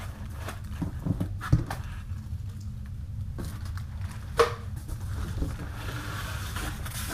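Scattered knocks, clicks and rustles of compressor parts and packaging being handled, with one sharp knock about four seconds in, over a steady low hum.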